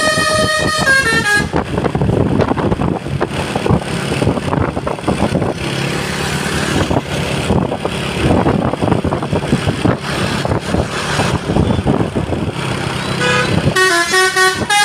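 Basuri musical multi-tone horn on a Fuso truck playing a stepping melody, which breaks off about a second in. A long stretch of loud, noisy vehicle sound follows, and the horn melody starts up again near the end.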